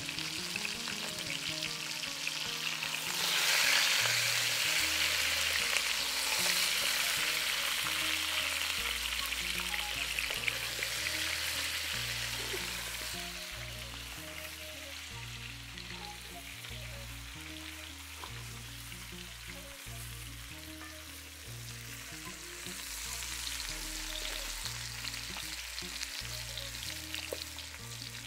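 Whole peeled potatoes frying and sizzling in an aluminium pot over a wood fire, stirred now and then with a wooden spatula. The sizzle swells about three seconds in and eases after the middle. Quiet background music with low stepped bass notes runs underneath.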